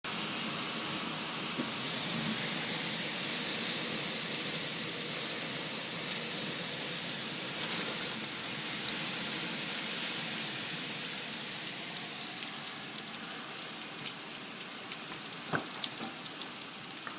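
Steady rain pouring down in a hurricane, easing slightly toward the end, with scattered drips and taps in the last few seconds.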